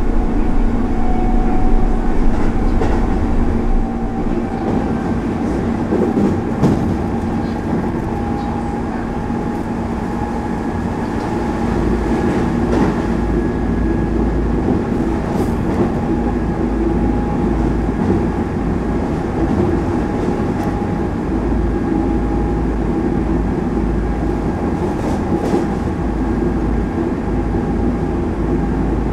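Hanshin Railway express train running at speed, heard from inside the carriage: a steady rumble with a faint hum and a few sharp clacks from the wheels.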